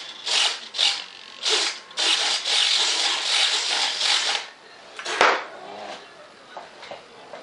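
Scraping strokes of hand filing or sanding on the drone's airframe: several short strokes, then a longer stretch of about two seconds. About five seconds in comes a single sharp sound with a quick downward sweep, and after it only faint, scattered sounds.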